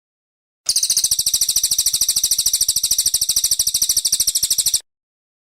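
Brown cililin songbird singing a rapid, high-pitched trill of evenly repeated notes, about fourteen a second, lasting about four seconds and cutting off abruptly.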